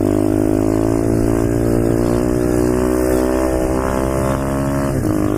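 Pit bike's small single-cylinder engine running under way at a steady throttle, its pitch creeping slightly upward, with a brief dip in revs near the end.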